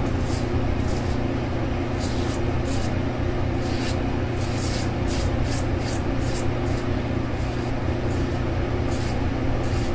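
Safety razor blade scraping lathered stubble in short strokes, one every half second or so, during an across-the-grain pass. The steady hum of a fan runs underneath.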